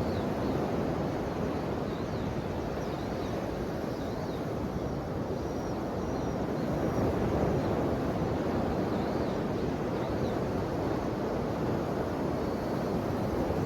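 Ocean surf washing ashore in a continuous deep rush that slowly swells and eases.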